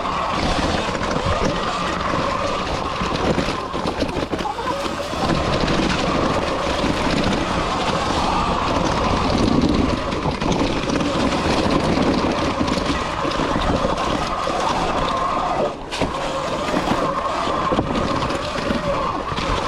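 Sur Ron X electric dirt bike running along a trail: a steady whine from the electric motor and drivetrain, wavering a little with the throttle, over wind noise on the microphone and a busy clatter of the bike jolting over rough ground.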